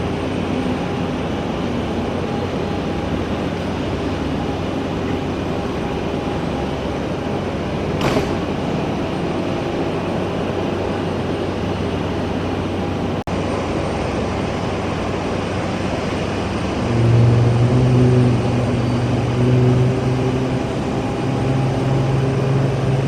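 Aircraft engine noise at an airport: a steady rushing drone with a low hum. About seventeen seconds in, a louder low pitched drone with steady tones comes in on top.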